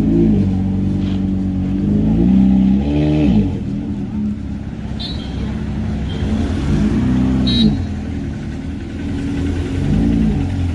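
Ferrari mid-engined V8 running at low speed, revved briefly three times, its pitch rising and falling each time.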